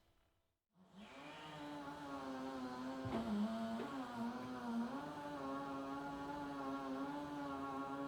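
Toyota 8FBMKT20 electric forklift's motor running with a steady electric hum, starting about a second in and sagging briefly in pitch twice.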